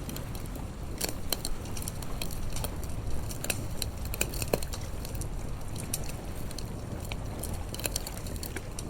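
Wood fire crackling, with irregular sharp pops scattered through, over a steady low rumble.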